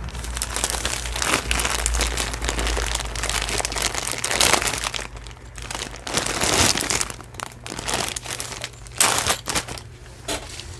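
Small plastic bags of jewelry and beads crinkling and rustling as they are handled, coming and going irregularly with a few short pauses.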